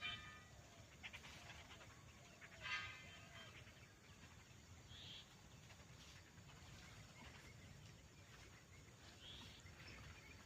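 Faint farmyard bird calls: a short rasping call right at the start and another about three seconds in, then a couple of brief high chirps, over a low steady rumble.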